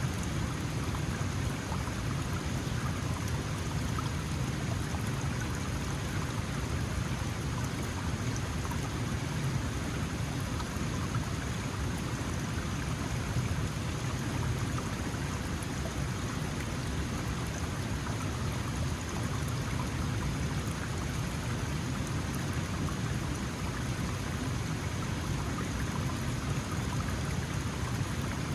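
Small mountain stream running, a steady, even rush of water with no breaks.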